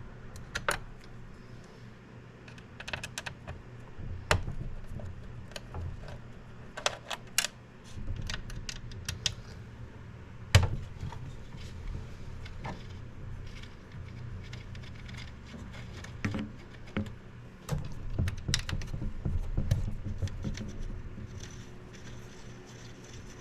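Irregular light clicks and taps of a screwdriver and screws being worked out of a 3D printer's metal frame, over a low steady hum.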